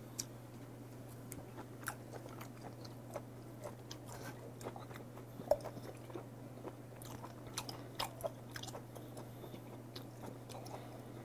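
A person chewing raw olive flounder sashimi close to a clip-on microphone: soft wet mouth clicks and smacks scattered irregularly throughout, a little louder about five and a half seconds in and around eight seconds. A steady low hum runs underneath.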